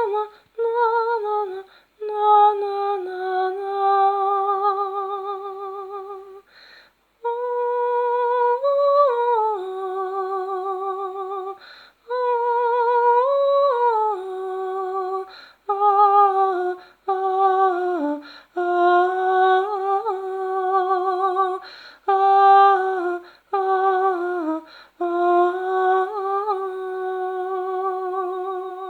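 A high voice humming a slow, wordless melody with vibrato, in phrases of a few seconds, with short breaths between them.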